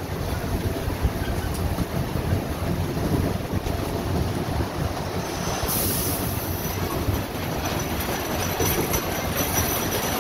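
Small amusement-park train running along its track, a steady rumble of wheels on rail, with a brief high-pitched burst about six seconds in.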